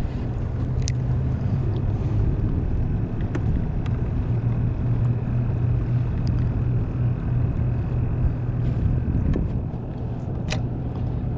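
A small boat's motor running steadily: a constant low hum with a faint high whine above it, and a few light clicks.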